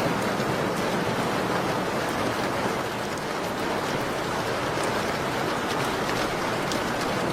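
Steady rain falling, with a few faint, scattered crackles from a wood fire.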